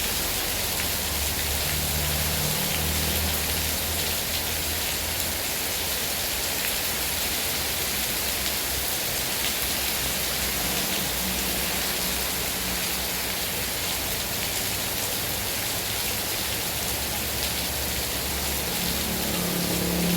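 Heavy rain falling steadily, an even hiss of drops on surfaces, with a low rumble coming and going underneath.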